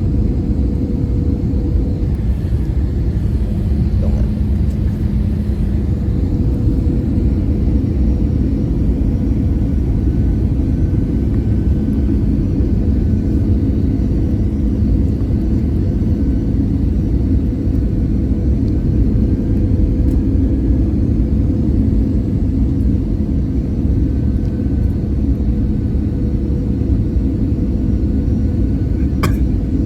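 Airbus A320-200 cabin noise: a steady low rumble of engines and airflow with a steady hum, and a brief click near the end.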